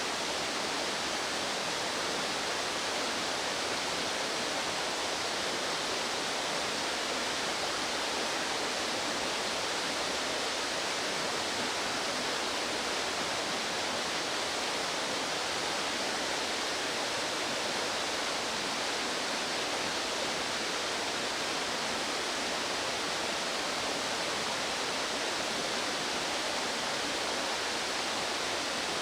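Fast-flowing stream water rushing steadily, with no change in level.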